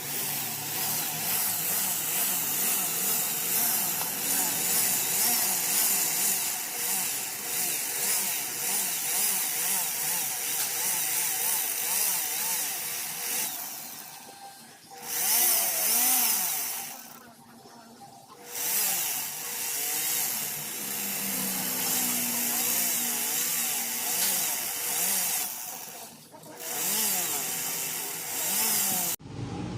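A power tool running and working material, its pitch wavering with the load, in several segments separated by abrupt cuts: two short breaks around the middle and another near the end.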